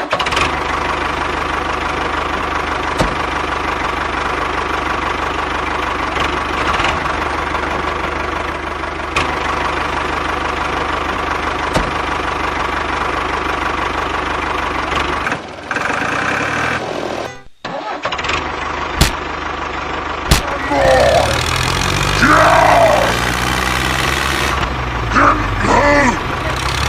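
Engine running steadily, broken off abruptly a couple of times about two-thirds through; in the last few seconds a deeper engine note rises and falls, as under changing load.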